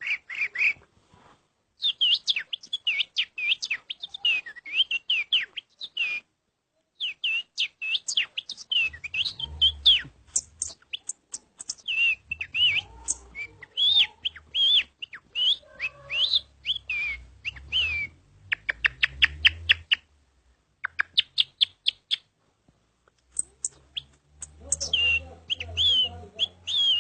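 Bird calls imitated by a man: rapid high chirps, trills and quick pitch sweeps in runs broken by short pauses.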